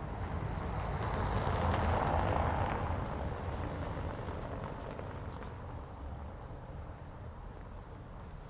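A motor vehicle passing by: a steady rush of engine and tyre noise that swells to its loudest about two seconds in, then slowly fades away.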